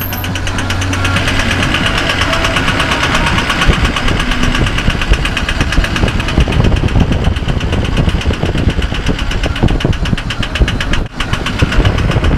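Truck engine running close by with a fast, even knocking beat.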